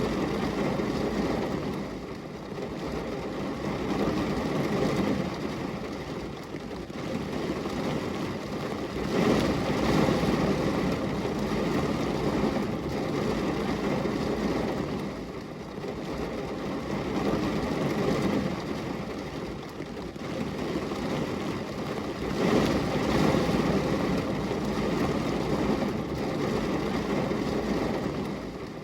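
Rain falling on a glass window: a steady, low, rushing noise that swells and eases in slow waves every several seconds.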